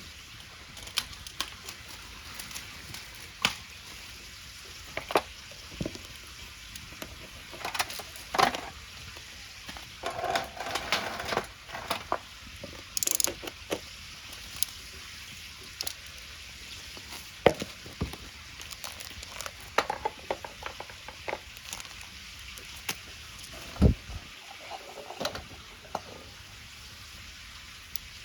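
Wood bonfire crackling with irregular sharp pops over a steady sizzling hiss. There is a louder pop about 24 seconds in.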